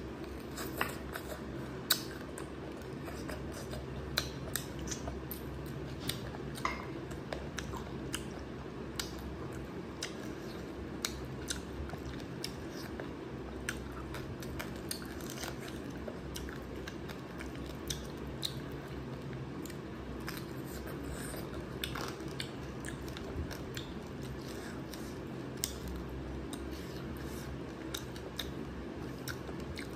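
Close-up chewing and wet mouth sounds of someone eating rice and curry by hand: short, irregular smacks and clicks over a steady low hum.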